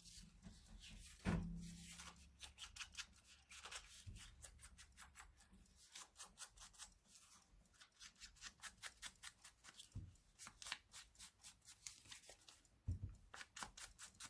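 Ink blending tool being rubbed over the edges of paper in quick, faint, scratchy strokes, about four a second, with a few soft knocks against the work surface.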